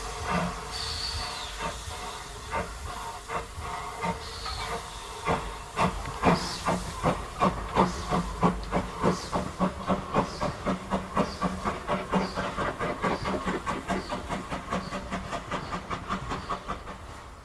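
Steam locomotive pulling away with its train, LB&SCR A1 Terrier tank engine 'Freshwater': a hiss of steam at first, then exhaust beats that start slowly and quicken to about three or four a second as it gathers speed.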